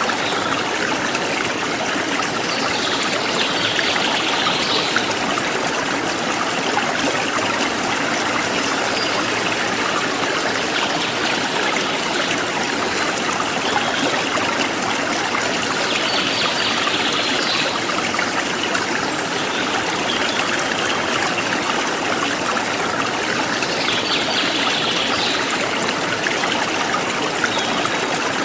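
A forest stream or river flowing steadily over stones, an even rushing and trickling. Three times a brief, higher-pitched flurry stands out above the water.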